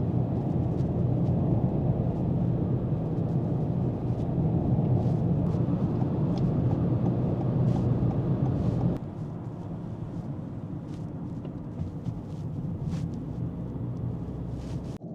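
Steady low rumble of a car driving, road and engine noise. It drops abruptly to a quieter level about nine seconds in and carries on steadily.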